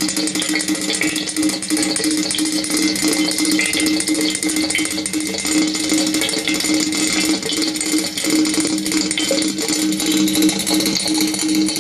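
Amplified sound from a microphone lowered into a steel-cased borehole: a steady low hum with dense crackling and rattling over it, which the recordist takes for the sound of underground tunnel digging.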